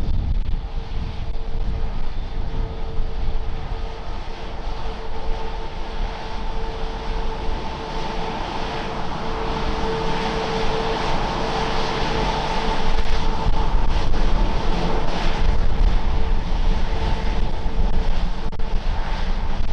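Airbus A350-1000 jet airliner's Rolls-Royce Trent XWB turbofans running: a steady engine whine over a rushing noise and low rumble, swelling to a peak about halfway through and easing off toward the end.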